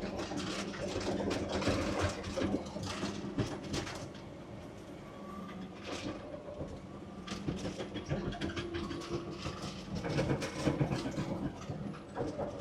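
CAT D6R dozer with a C9 diesel working under load, with the engine running steadily beneath frequent clanking and cracking knocks from the tracks and the root rake as it pushes brush and debris. The knocks ease off for a few seconds midway, then pick up again.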